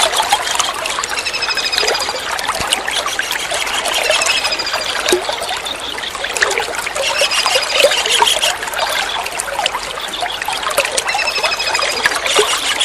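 Kingfisher (tengkek udang / cekakak) calls: short, high, rapidly pulsed trills that fall slightly in pitch, repeated several times. Under them runs a steady trickle of water.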